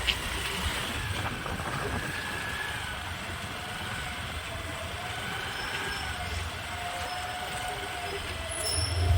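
Steady road-traffic noise with several faint, long, wavering high tones drifting over it, like distant horns.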